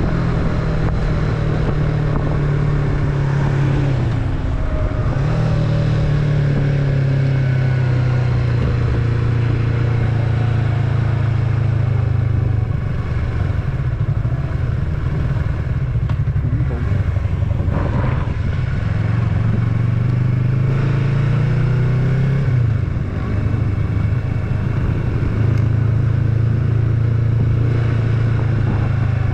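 Yamaha MT-03's 321 cc parallel-twin engine and stock exhaust running under way, recorded from the bike. The engine note climbs, then dips and picks up again twice, about four seconds in and again after twenty seconds.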